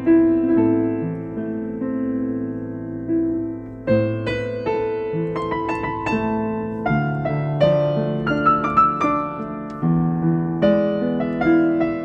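Solo piano music: slow, sustained chords, then from about four seconds in a run of quicker, brighter notes over held chords.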